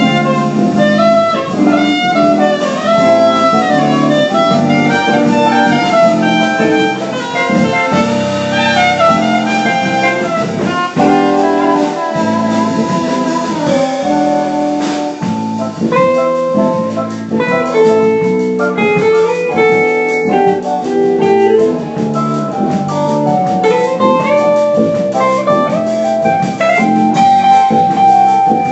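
Jazz ensemble playing a tune, with guitar to the fore.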